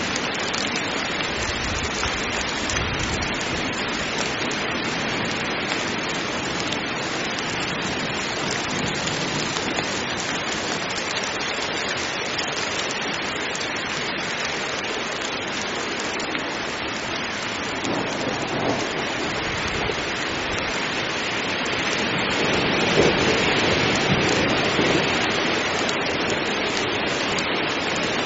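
Heavy rain falling steadily as a dense, even hiss, swelling louder about two-thirds of the way through.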